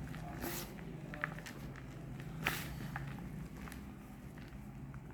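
Reformed gym chalk bars being crushed: a few separate dry crunches, the loudest about two and a half seconds in, over a low steady hum.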